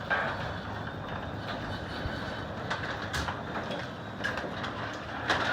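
Sectional garage door closing under a Chamberlain DC belt-drive opener: a steady rumble of the door running down its tracks, with a few clicks and clunks from the rollers and panels.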